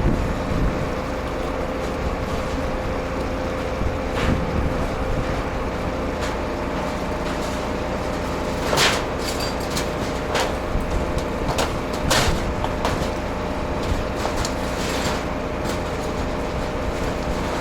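Scania truck's diesel engine running steadily with a constant whine, and a few sharp knocks and clanks, the loudest about nine and twelve seconds in.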